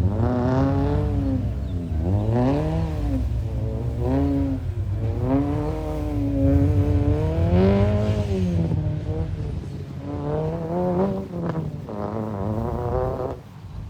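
Volvo 740 Turbo's turbocharged four-cylinder engine being driven hard, its revs climbing and dropping again and again as the throttle is worked through the course.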